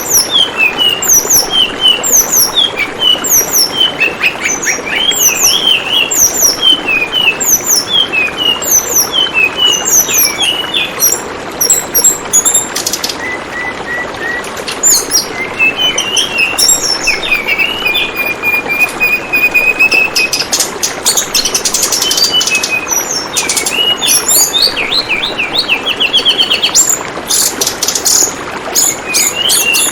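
Tledekan bambu bird singing: a steady stream of quick, varied chirps and trills, with a long run of rapid repeated notes in the second half. Under it runs the steady trickle of flowing water.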